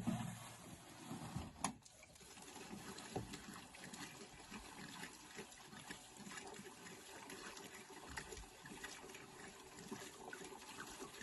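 Gasoline being poured from a can into an old bulldozer's fuel tank, a faint steady trickle, with a single click about two seconds in.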